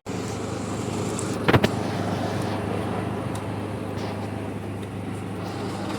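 Heritage diesel train engine idling steadily with a low hum. A sharp double knock comes about a second and a half in.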